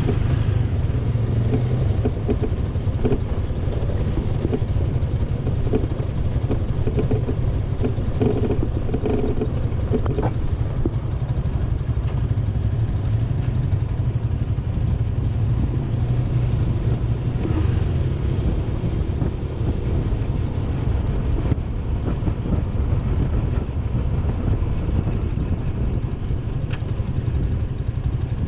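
AKT GP 180 motorcycle engine running steadily, a continuous low drone.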